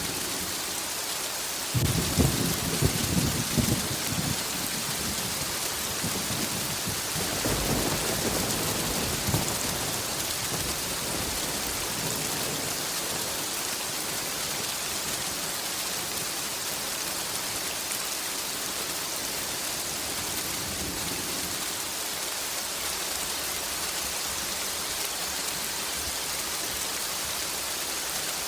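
Steady heavy rain with thunder: a sudden loud rumble about two seconds in, a weaker roll of thunder a few seconds later, then rain alone for the rest.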